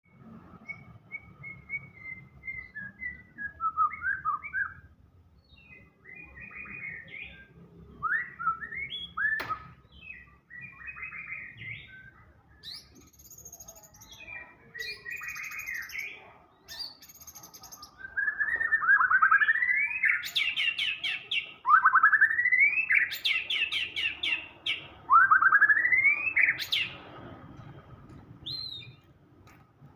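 White-rumped shama (murai batu) singing continuously, a varied song of whistles and chattering phrases with mimicked calls mixed in. Three long rising sweeps in the second half are the loudest part.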